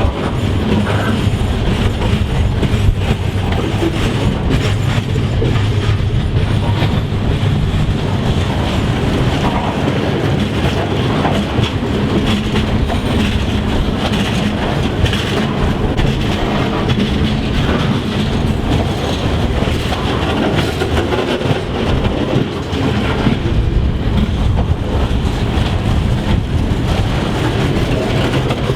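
A train passing close by: a steady, loud rumble with the wheels clicking and clattering over the rails the whole time.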